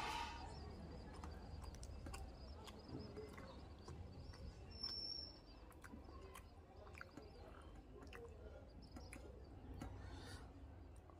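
Faint chewing and wet mouth clicks from a man eating roti dipped in dal by hand, with scattered small clicks and a low steady hum underneath. A brief high tone sounds about five seconds in.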